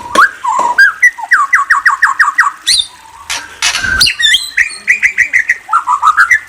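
Murai songbird singing a varied song: fast runs of repeated clear notes, about eight a second, mixed with higher sweeping whistles, ending in a rising run. A couple of knocks come just past the middle.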